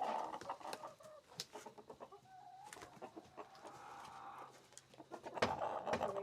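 Domestic hens clucking and calling, with short pitched calls on and off and scattered sharp clicks, and a louder squawking burst about five and a half seconds in.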